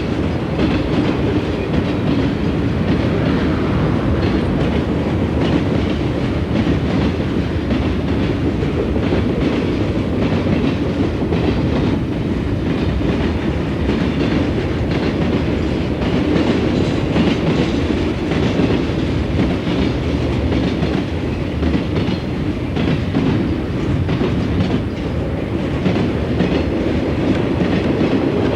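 Southern Pacific freight train rolling past steadily, its wheels clattering over the rail joints.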